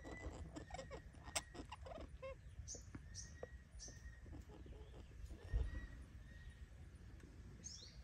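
Faint short, high, falling chirps from a bird, about four, over scattered soft clicks, with a single low thump about halfway through.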